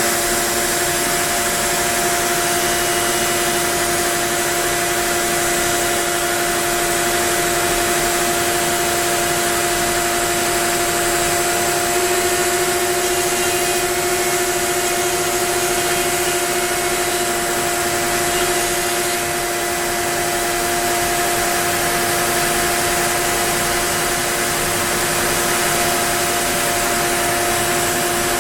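Onefinity wood CNC router running and cutting wood: a steady spindle whine over a constant rushing noise.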